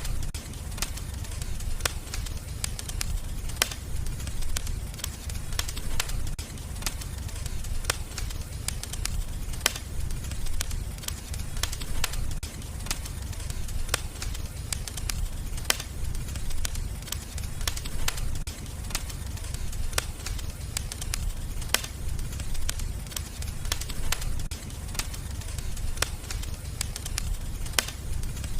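Wood fire burning in a fireplace: a steady low rumble with irregular sharp crackles and pops, a few every second.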